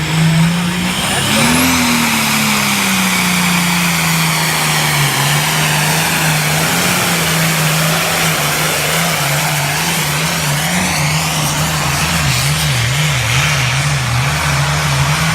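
A pulling tractor's engine running hard and loud under the load of the sled, with a dense exhaust hiss over it. Its pitch rises about a second in, settles back and holds steady, then wavers up and down near the end as the engine speed surges under load.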